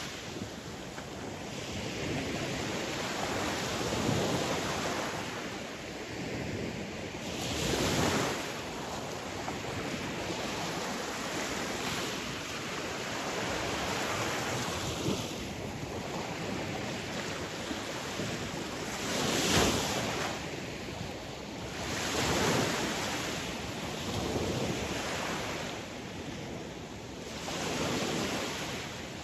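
Sea waves washing onto a shore: a steady rush of surf that swells into a louder surge every few seconds, the biggest about two-thirds of the way through.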